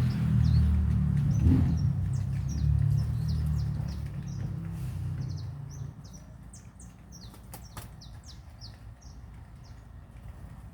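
Small birds chirping, a quick run of short high chirps, over a low rumble that fades out about halfway through; a few sharp clicks.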